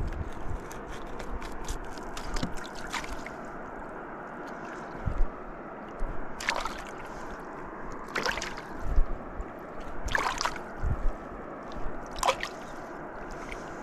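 River water running steadily, with water sloshing and splashing about every two seconds in the second half.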